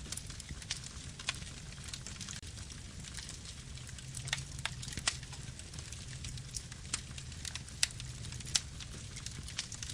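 Campfire burning: a steady low rumble of flames with frequent irregular crackles and sharp pops from the burning wood.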